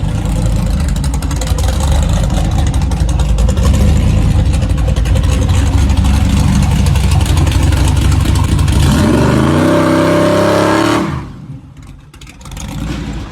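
Gasser drag car's engine running loud and hard, then revving up in a rising pitch for about two seconds before the sound drops away suddenly near the end.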